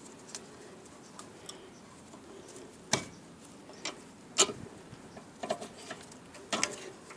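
A handful of sharp metallic clicks and knocks as brake caliper parts and hand tools are handled during a rear brake pad job, the loudest about four and a half seconds in.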